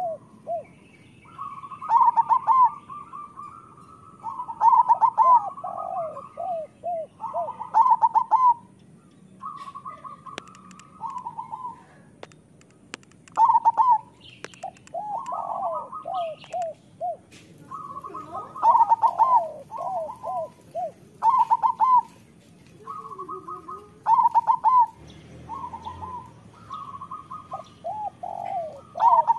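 Zebra doves (perkutut) cooing over and over: short phrases of clipped, stepped notes come every two to three seconds and sometimes overlap.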